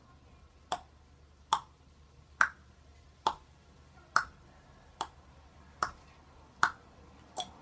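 A steady series of sharp clicks, nine in all, evenly spaced a little under a second apart.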